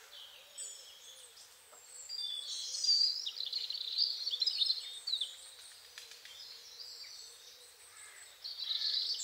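Several birds chirping and calling, busiest about two to five seconds in and again near the end.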